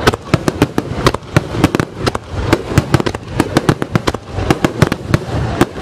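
Star mine fireworks barrage: aerial shells bursting in quick succession, several sharp bangs a second over a steady low rumble.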